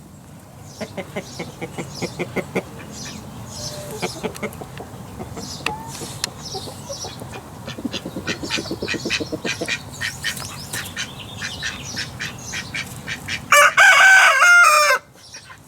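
A flock of chickens clucking in many short, quick calls, with one loud, drawn-out call from a bird near the end.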